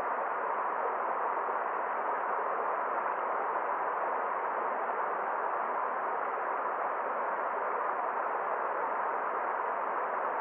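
Forest stream water running with a steady, even rushing that does not change.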